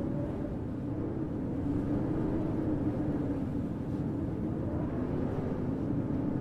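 Steady low rumble of city ambience in a snowstorm, wind mixed with distant traffic, with a faint wavering hum throughout.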